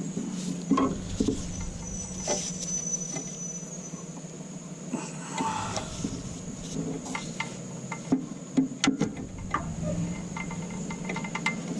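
Scattered light clicks and knocks of hand tools and metal engine parts being handled, over a steady low hum.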